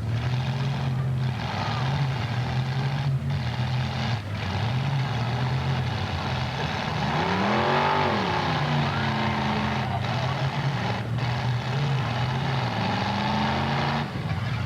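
Demolition derby car engines running, with a steady low drone; one engine revs up and back down about eight seconds in, and another rises and falls in pitch near the end.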